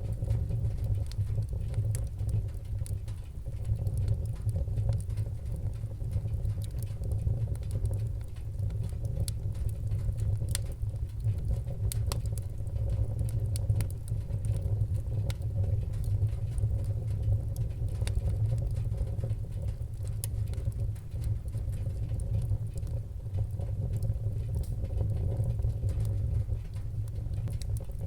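Wood-burning fire crackling, with many small irregular pops and snaps over a steady low rumble.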